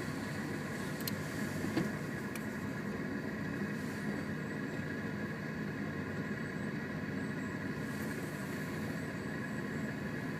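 Car engine idling steadily, heard from inside the cabin, with a few faint clicks in the first couple of seconds.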